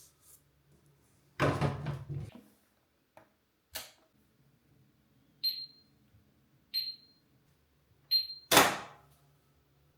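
A household appliance's control panel beeps three times with short, high electronic beeps about a second and a half apart. Around them are knocks: a clatter about a second and a half in and a louder thump near the end.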